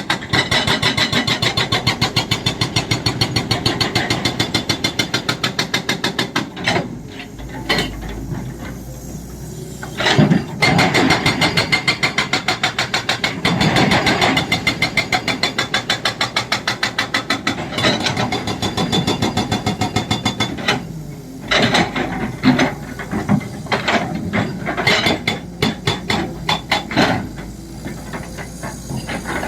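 Excavator-mounted hydraulic breaker hammering in rapid, even blows over the excavator's diesel engine. The hammering stops and starts a few times, with scattered irregular knocks in the gaps.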